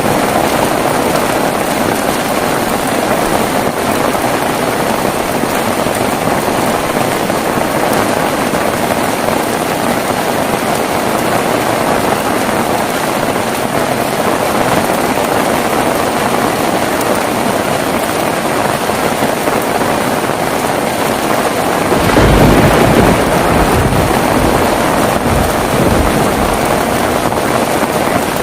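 Heavy rain falling steadily. About two-thirds of the way through, a deep roll of thunder starts, loudest at first and rumbling on through the rest.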